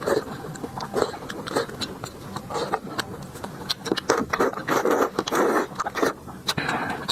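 Close-miked eating: a person chewing and biting food with irregular wet smacking and clicking mouth sounds.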